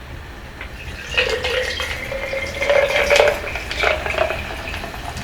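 Cola poured into a glass, starting about a second in: a steady pouring sound with fizz and small clinks of glass.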